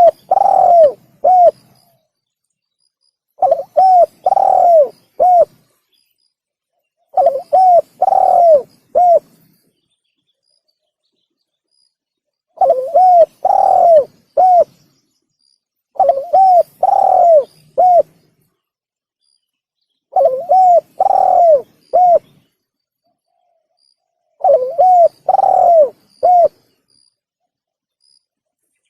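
Spotted dove cooing, played as a lure call: the same short phrase of about four coos, the third longer and arching, repeated every few seconds with silence in between.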